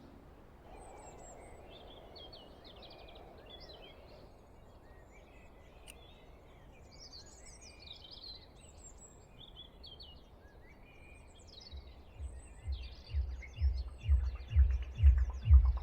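Dawn chorus of small birds chirping and trilling. About twelve seconds in, a deep bass beat of about two thumps a second fades in under the birdsong and grows louder.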